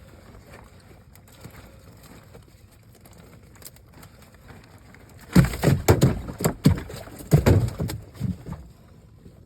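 A burst of loud, irregular thumps and knocks lasting about three seconds, starting a little past halfway, over a quiet background.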